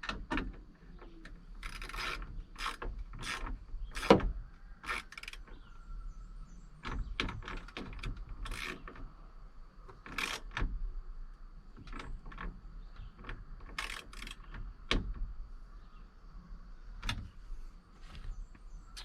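Ratchet wrench clicking in irregular spells as the tow mirror's mounting nuts are tightened, mixed with short knocks of tools and parts, one sharper knock about four seconds in.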